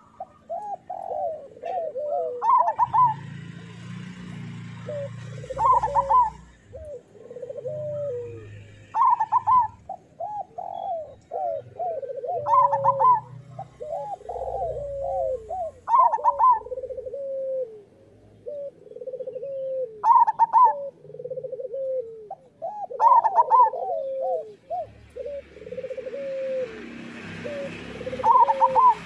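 Zebra doves (perkutut) singing their staccato cooing song. Each phrase opens with a high note, repeated roughly every three to four seconds, and runs into a string of lower coos.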